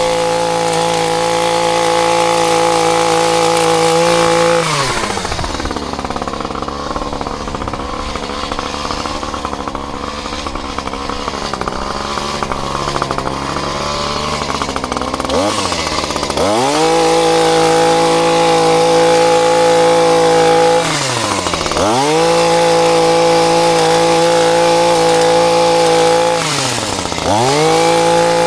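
Two-stroke chainsaw running at high revs, dropping in pitch and running lower and unevenly for about ten seconds, then revving back up. It dips briefly and recovers twice more near the end.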